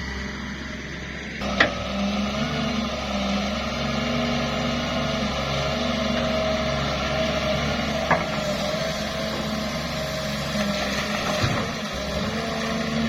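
Doosan 210W wheeled excavator running steadily under work, with a few sharp knocks, the loudest about a second and a half in and another about eight seconds in.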